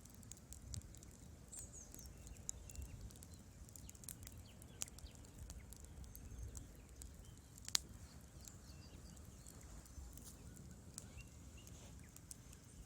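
Wood fire burning in a fireplace: irregular small crackles and snaps from the logs, with one sharp, louder pop about two-thirds of the way through, over a faint low rumble.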